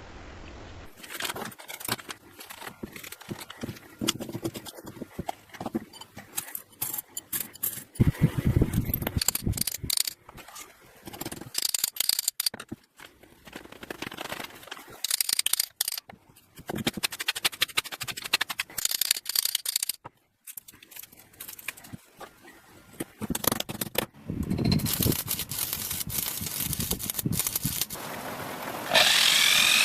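A series of short blacksmithing workshop sounds, cut together: scraping, rattling and sharp knocks of metalwork. Near the end a power tool starts up loudly with a rising whine.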